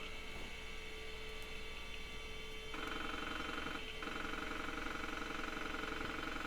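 PC floppy drive being accessed by Windows 95 setup: a steady buzzing drone starts about three seconds in, breaks off for a moment, then carries on. Underneath it is the computer's low steady hum.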